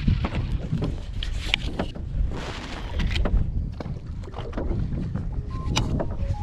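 Sounds aboard a small fishing boat at sea: a low rumble with wind buffeting the microphone, scattered knocks and clicks, and a brief hiss about two and a half seconds in.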